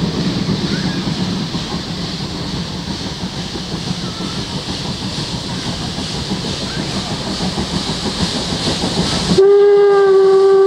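A train running on the track: a steady rumble with rail noise. About nine seconds in, a loud locomotive whistle starts abruptly, holding one steady pitch with overtones.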